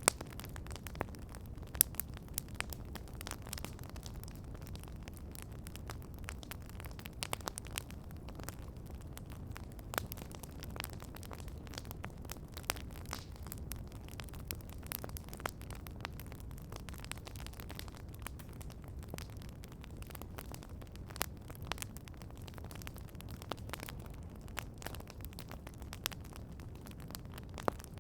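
Wood campfire crackling and popping, with irregular sharp snaps over a low, steady rumble of burning.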